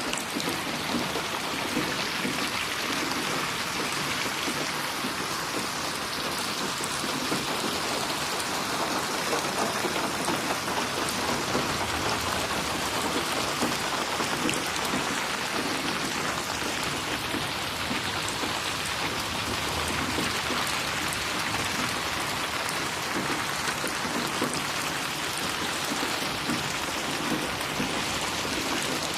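Steady rain falling and splashing on a surface: a dense, even hiss of drops with fine patters, without thunder.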